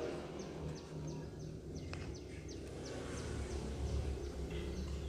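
A small bird chirping in a quick, even series of short falling notes, about four a second, over a low steady background rumble. There is a single sharp click about two seconds in.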